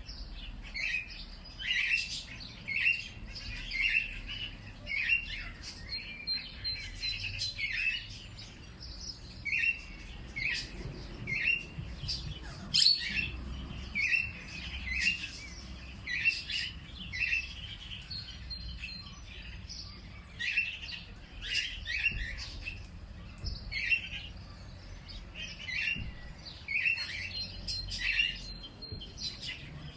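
Songbirds chirping: a steady run of short chirps, roughly one or two a second, with an occasional thin, higher whistle.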